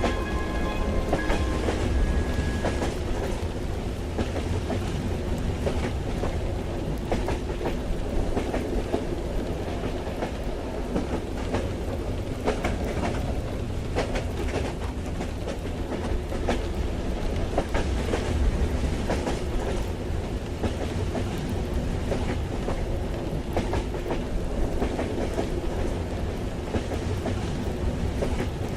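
Ambience from inside a moving train: a steady low rumble with irregular clicks and rattles of the wheels on the rails. The tail of a song fades out in the first couple of seconds.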